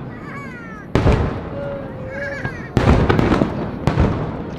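Two loud sudden bangs a little under two seconds apart, each trailing off in crackling, with a smaller crack near the end.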